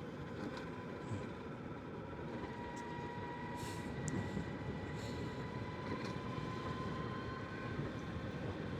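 Energica Experia electric motorcycle riding on a gravel road: a steady high whine from the electric drive over a continuous low rush of tyre and wind noise.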